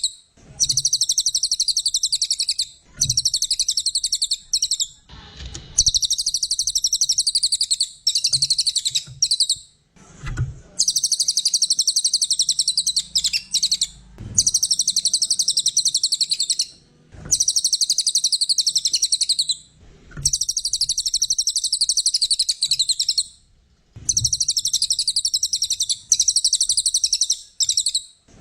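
Brown cililin songbird singing a fast, high-pitched chattering song in repeated bursts of two to three seconds with brief pauses between them.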